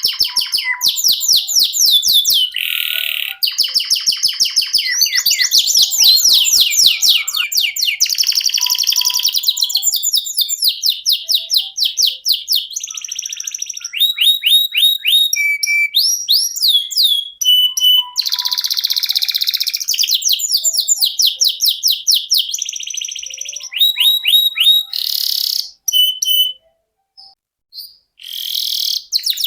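Male domestic canary singing a long rolling song: fast trills and rapid strings of repeated notes, high-pitched, with a couple of brief pauses near the end.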